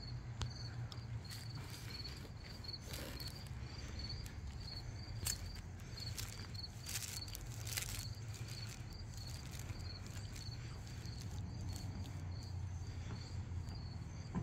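A cricket chirping steadily in a high, even rhythm of about two to three chirps a second, over a low steady hum, with a few scattered light clicks.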